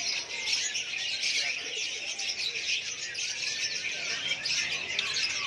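Many caged songbirds of mixed kinds chirping and singing at once: a dense chorus of overlapping short chirps and trills.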